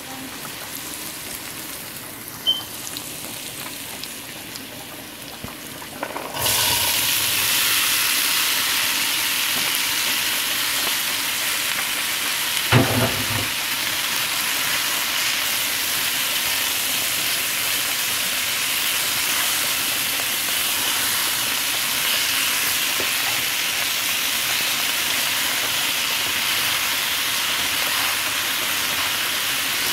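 Pressure-cooked chickpeas sizzling in hot oil with fried onion, garlic and masala as they are stirred with a spoon in a metal pot. The sizzle starts suddenly about six seconds in and then stays steady, with a single knock about halfway through.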